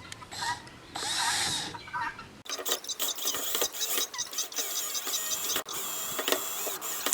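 Power drill driving screws into a wooden brace, running in short spurts: one brief run about a second in, then repeated start-and-stop bursts with a rising and falling motor whine from about halfway on.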